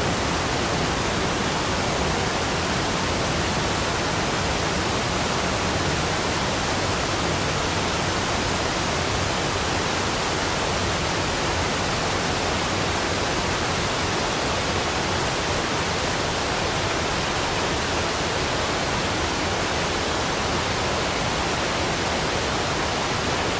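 Waterfall rushing: an even, unbroken hiss of falling water that does not change.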